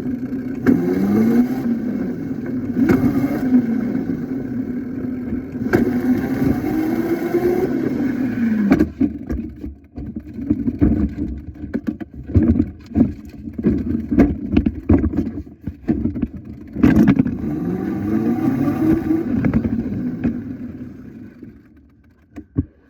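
Small motorcycle engine revving up and down again and again, its pitch rising and falling over a second or two each time, then fading away near the end.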